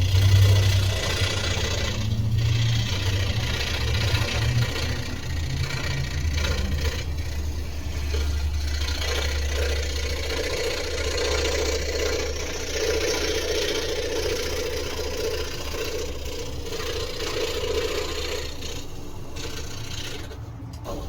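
A motor running steadily with a low hum, changing slightly in the first few seconds.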